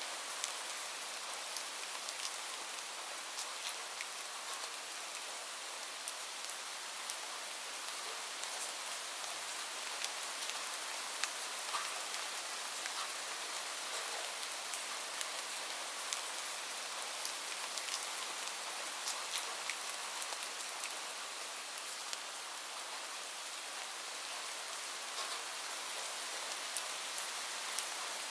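Steady rain: an even hiss with many small drops ticking on a surface.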